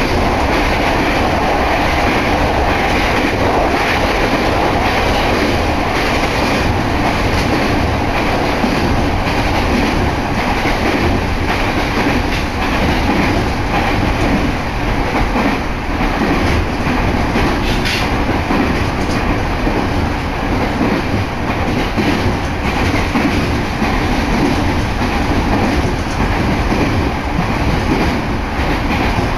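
Electric commuter train running at speed, heard from inside the passenger car: a steady rumble of wheels on the rails with a light clatter over the track.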